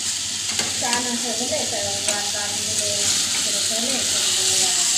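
Okra and potato sabzi sizzling in a kadai while it is stirred with a spatula: a steady frying hiss with a few short clicks of the spatula against the pan.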